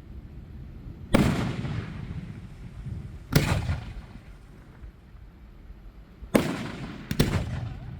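Fireworks bursting: four sharp booms, each fading away in a rumbling echo. The last two come close together near the end.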